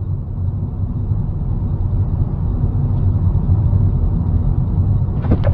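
Steady low engine and road rumble of a car driving, as picked up by a dash cam, slowly getting louder. A sudden loud crack-like noise breaks in near the end.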